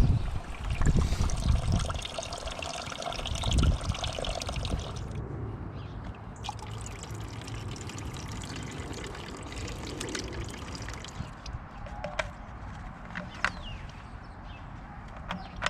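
Liquid trickling and pouring during a motorbike coolant change, with a few dull low knocks in the first few seconds. The flow is loudest for about five seconds, then eases to quieter trickling with light clicks.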